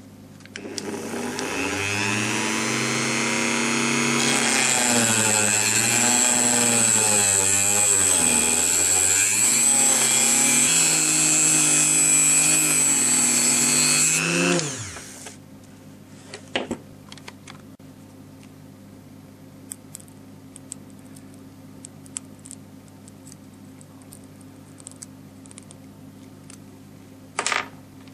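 Handheld rotary tool cutting through a nylon rod. The motor spins up, its pitch dips and wavers as the cut loads it, and it winds down after about fourteen seconds. Faint handling clicks follow.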